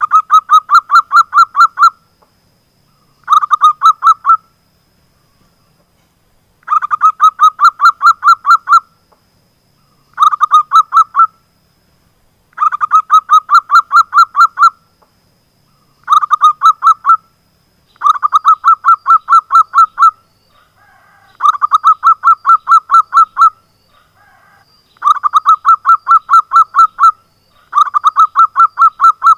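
Zebra dove (perkutut) calling: bursts of rapid staccato cooing notes, about six a second, each burst lasting one to two seconds and repeated after short pauses.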